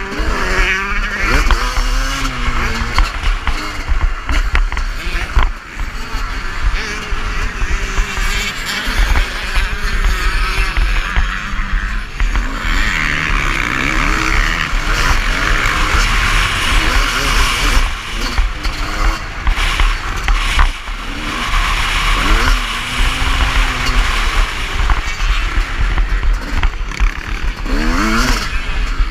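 Motocross dirt bike engine at full ride, revving up and down again and again through gear changes and corners, heard from an onboard GoPro.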